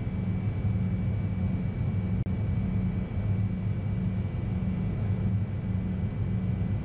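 Steady in-flight cockpit noise of a Gulfstream G-IV jet: an even airflow rush over a low hum, with faint steady high-pitched tones. The sound drops out for an instant about two seconds in.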